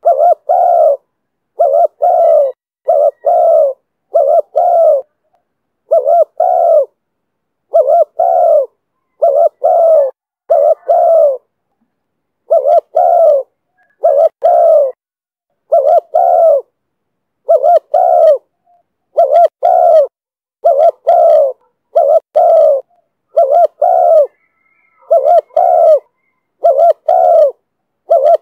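Spotted dove cooing in the 'thổ thúc bổi' style, loud and clear: short coo notes mostly in pairs, repeated steadily with brief silent gaps between the groups.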